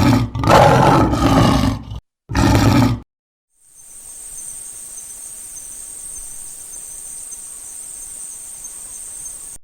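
A lion roaring twice, the first roar about two seconds long and the second shorter, followed a moment later by a steady high-pitched insect drone that runs on to the end.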